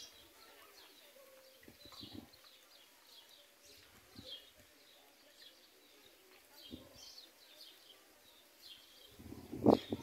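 Small birds chirping repeatedly in short, faint calls, with a few soft low knocks now and then.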